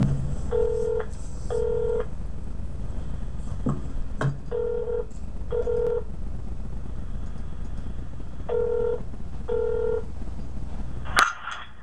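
Telephone ringing tone heard down the line while a call waits to be answered: three pairs of short beeps about four seconds apart over a steady low line hum, with a few clicks, and a sharp click near the end as the call is picked up.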